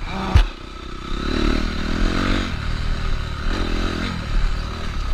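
Honda CRF250R motocross bike's single-cylinder four-stroke engine running and revving up and down several times, with a sharp knock about half a second in.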